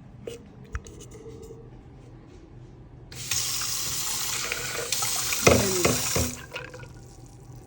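Kitchen tap running for about three seconds, starting about three seconds in and cutting off, with a few light knocks and clinks around it.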